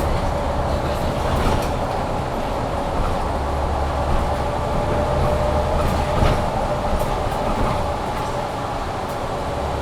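Interior ride noise of a 2022 Mercedes-Benz Citaro C2 G articulated bus under way: steady drivetrain and road rumble, a steady whine from the loud heating, and a few light rattles. The pitch stays even, with no revving.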